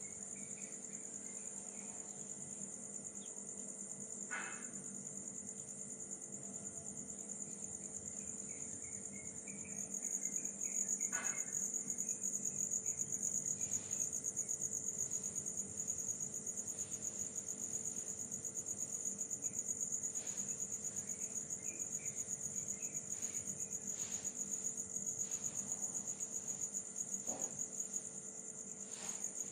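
Evening insects chirping in a fast, steady, high-pitched pulse, louder from about a third of the way in. A faint steady hum runs underneath, and a few soft knocks come now and then.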